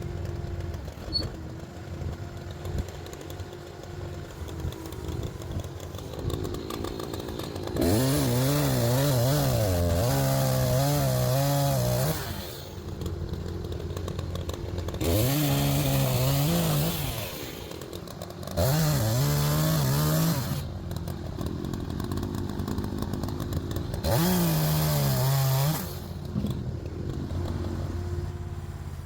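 Chainsaw revving up to full throttle four times, each run lasting two to four seconds with its pitch wavering, and dropping back to idle between runs, as when bucking logs.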